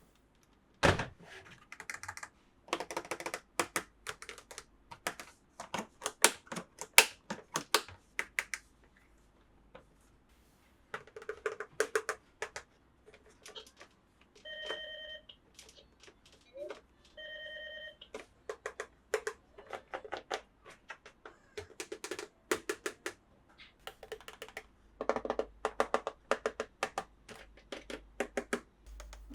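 Small hard plastic toy parts being handled, with many irregular clicks, taps and snaps in quick runs. Two short electronic beeps sound in the middle, a few seconds apart.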